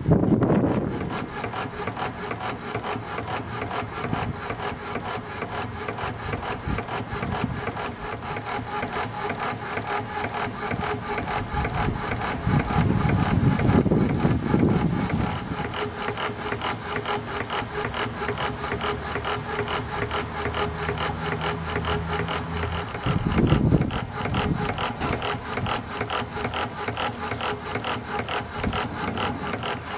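3-inch scale Burrell steam traction engine running, its exhaust beating in a steady rapid chuff. A louder low rush swells up twice, about halfway through and again about three quarters of the way in.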